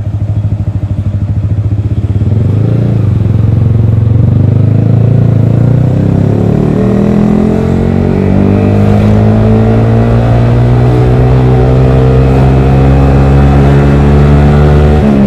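Yamaha R15 V3's single-cylinder engine through a Daytona Evolution aftermarket exhaust, rising in pitch as the bike pulls away over the first several seconds, then holding a steady note while riding.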